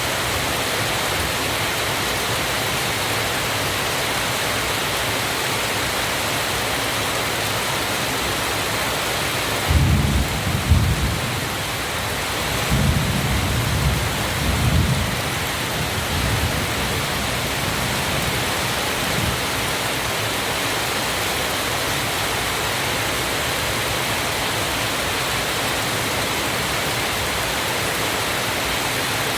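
Waterfall rushing steadily, with deep rumbles about ten seconds in and again a few seconds later.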